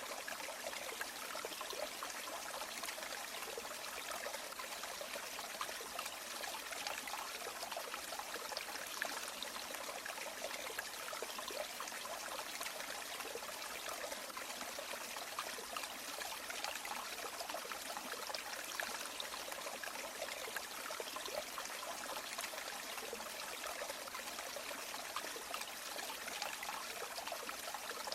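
Shallow river water running and trickling steadily, a continuous rushing with fine babbling detail and no breaks.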